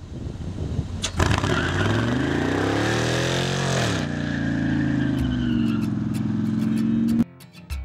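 LS V8 engine in a pickup truck firing up about a second in, revving up once and falling back to a steady idle. The engine sound cuts off suddenly near the end.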